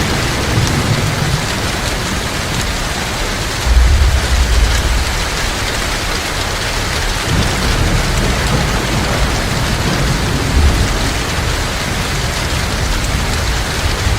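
Heavy rain pouring steadily, with low thunder rumbling underneath, loudest about four seconds in and swelling again in the second half.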